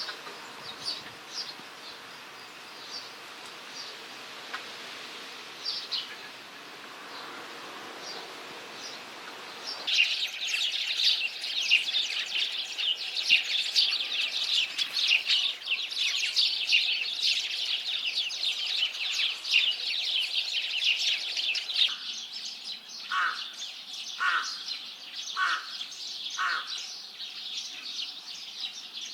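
House sparrows giving scattered chirps, then, about ten seconds in, a dense, loud chattering of Eurasian tree sparrows. About twenty-two seconds in a rook starts cawing, several short caws about a second apart over fainter chirping.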